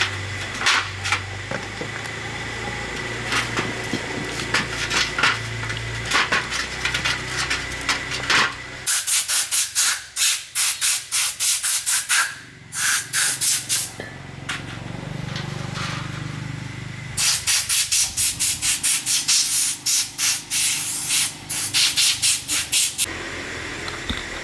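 Rapid back-and-forth abrasive rubbing strokes by hand, several strokes a second, in two long runs with a pause between them. Scattered small clicks and taps come before the first run.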